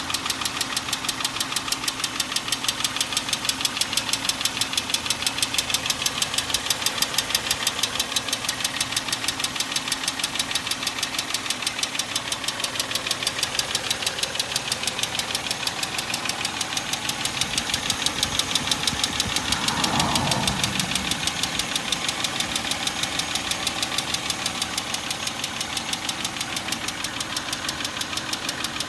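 2003 Chevrolet Tracker / Suzuki Vitara 2.5 L V6 engine running with a fast, even ticking throughout. This is a new tick that suddenly surfaced. One brief swell rises and falls in pitch about two-thirds of the way through.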